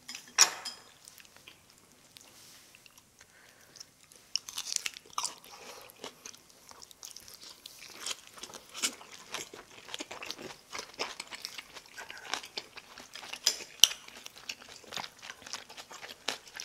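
Close-miked eating sounds: a person chewing a mouthful of cabbage wrap and rice, with many small wet clicks and crackles from the mouth. Two sharp taps stand out, one about half a second in and one near the end.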